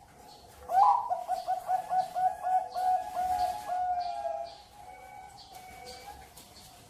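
Zebra dove (perkutut) cooing: a fast run of about a dozen short, even notes, about four a second, starting a little under a second in and fading out after about three and a half seconds.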